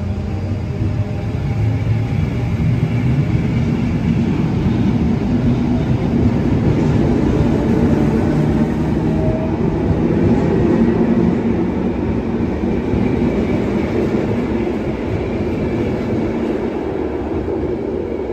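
Belgian passenger train moving slowly past a station platform: a steady rumble of wheels on rail, with a faint hum in the first few seconds. The sound swells a little toward the middle and eases again.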